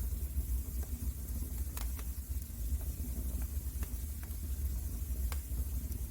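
Wood fire crackling in a fireplace: several sharp, separate pops from the burning logs over a steady low rumble of the flames.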